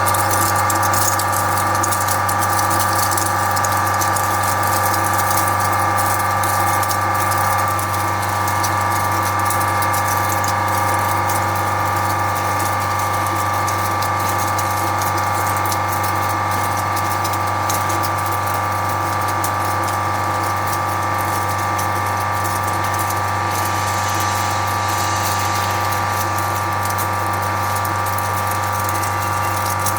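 Flake ice machine running: a steady hum from its 25 HP piston compressor and motors, with many steady tones. A fine crackle of ice flakes drops from the ice outlet throughout.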